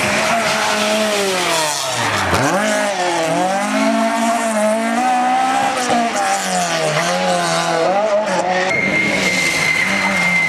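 Rally car engine revving hard and changing pitch through gear changes and throttle lifts, dropping sharply about two seconds in and then climbing and falling again. A steady high whine joins near the end.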